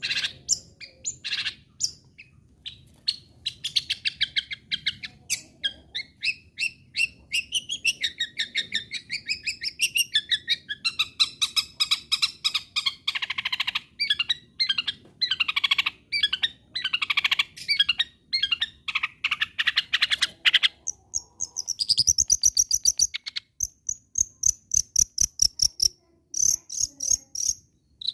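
Long-tailed shrike (cendet) in full song: a fast, almost unbroken stream of high chirps and warbled notes. About three quarters of the way through, it switches to bouts of a high, rapidly pulsing trill.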